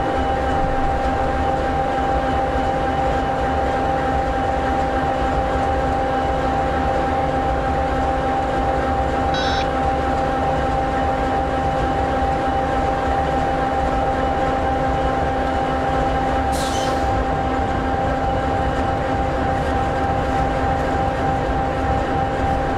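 EMD 16-710G3B sixteen-cylinder two-stroke turbocharged diesel in an SD60E locomotive idling steadily, with a constant whine over the engine's low rumble. A brief hiss cuts in about three quarters of the way through.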